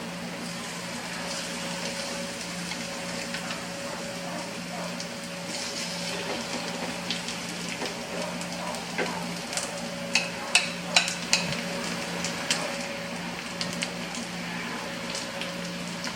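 Food sizzling in a frying pan over a steady low hum. A quick run of sharp metallic clinks from a utensil on the pan comes about ten seconds in, with a few lighter ones later.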